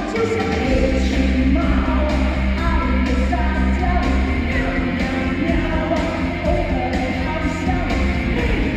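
Singing over backing music, a voice carrying a melody above a steady low bass line.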